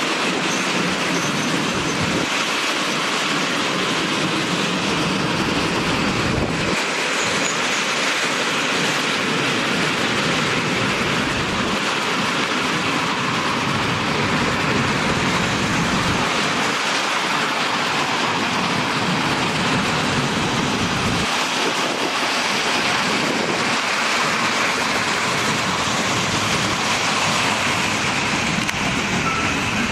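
Long freight train of open-top gondola wagons rolling past: a steady rumble of steel wheels on the rails, with clattering over the rail joints.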